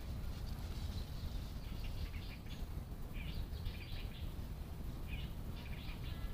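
Birds chirping in short clusters, a few times, over a steady low rumble of outdoor noise.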